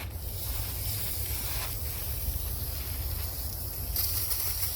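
Aerosol can of engine degreaser spraying in a steady hiss onto a dirty engine, with a stronger spurt near the end.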